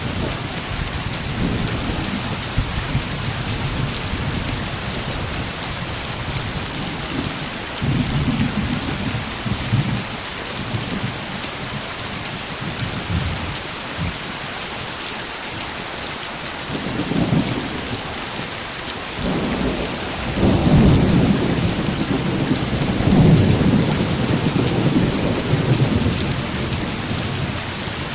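Heavy rain falling in a steady hiss, with low rolls of thunder rumbling through it, the longest and loudest from about two-thirds of the way in.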